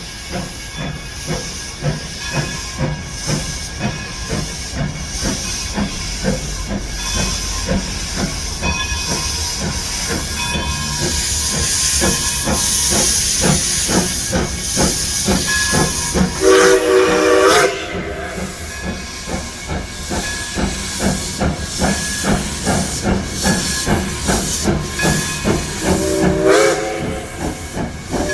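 Polson Logging No. 2 steam locomotive working a train, its exhaust chuffing in a steady rhythm with steam hissing, growing louder. Two blasts of its chime steam whistle sound, a short one past the middle and a longer one near the end.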